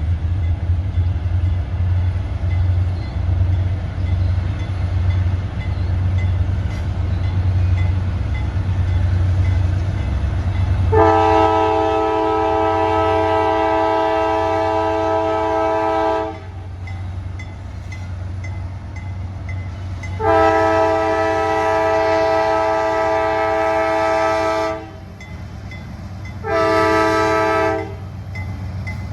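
CSX diesel locomotive rumbling as it approaches, then sounding its multi-tone air horn: two long blasts and a short one, the start of the standard grade-crossing signal.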